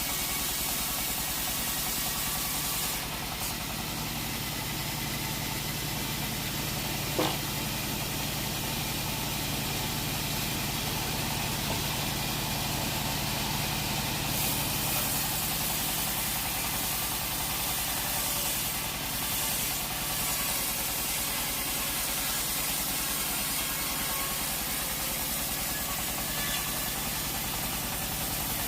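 Sawmill machinery running steadily: a low engine-like hum under a constant high hiss, with one sharp tick about seven seconds in.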